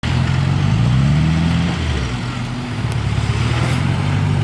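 Land Rover Defender's engine running at raised revs under load, towing a stuck 4x4 on a rope through mud. The revs sag about two seconds in and pick up again a second or so later.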